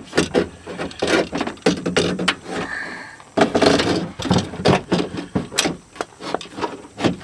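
Window regulator being worked into a truck door shell by hand: repeated knocks and clanks, with stretches of scraping and a brief squeak near the middle.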